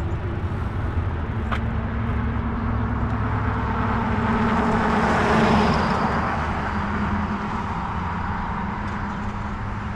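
A road vehicle passing, its hiss swelling to a peak about five seconds in and then fading, over the steady low rumble of riding a fat-tire e-bike.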